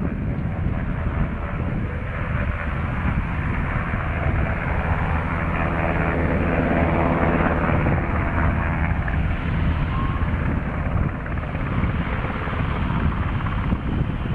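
Sikorsky HH-60G Pave Hawk helicopter passing by: the beat of its rotor and the noise of its engines grow louder to a peak about halfway through, then ease off.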